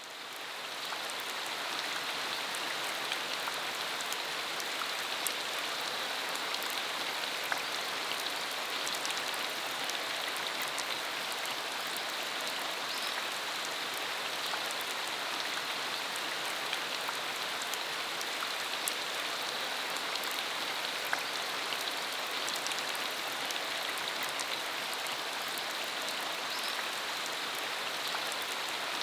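Steady rain falling, an even hiss with many small drop patters scattered through it, fading in over the first second.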